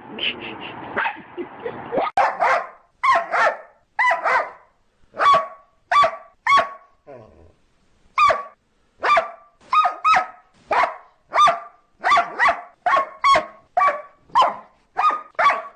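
A dog barking over and over, short sharp barks often in quick pairs about twice a second, with a brief pause about halfway through.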